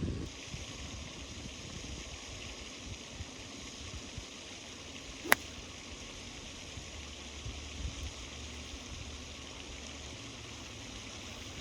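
A single sharp click about five seconds in: a hickory-shafted club striking a gutty golf ball. A steady outdoor hiss runs underneath.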